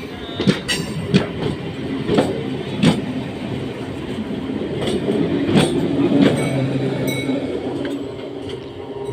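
MEMU electric multiple-unit train running on the track, with a steady rumble and a series of irregular clacks as its wheels cross rail joints.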